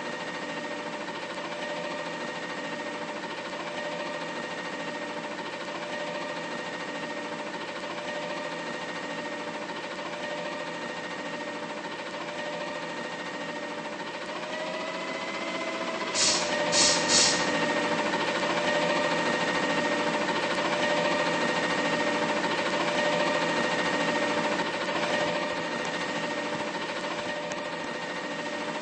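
Heavy truck engine running with a steady drone. About halfway through its pitch rises briefly, three short sharp sounds follow, and the engine stays louder after that.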